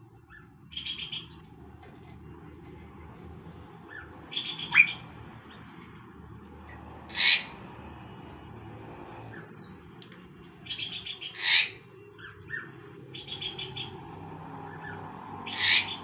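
Birds calling: short, rapid stuttering trills and a few loud, sharp single calls, repeated every few seconds.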